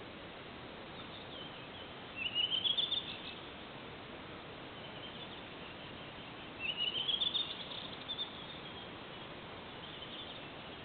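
A songbird singing two short phrases about four seconds apart, each a quick run of rising high notes, over a steady background hiss.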